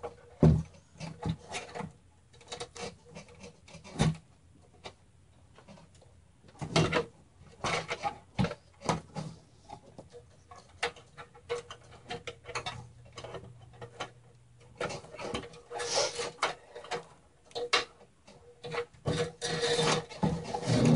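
Modular power-supply cables being fed through and routed inside a Cooler Master Elite 130 mini-ITX PC case: irregular rubbing and scraping of cable against the case, with scattered clicks and knocks.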